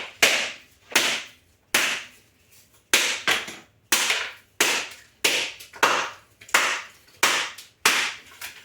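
Whole coconut being struck over and over with a wooden rolling pin to crack the shell: a dozen or so sharp knocks, about one every two-thirds of a second.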